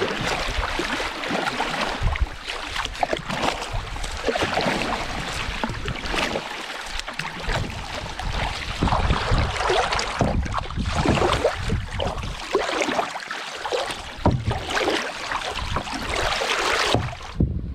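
Water splashing and sloshing around a canoe out on the lake, in irregular surges, with wind buffeting the microphone in a low rumble.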